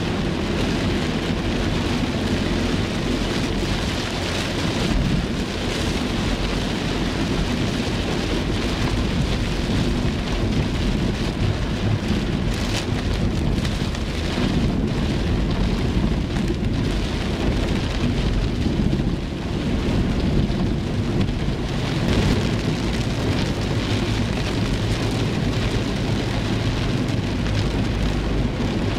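Heavy rain beating on a car's roof and windscreen, heard from inside the car: a steady, dense hiss with a deep rumble beneath it.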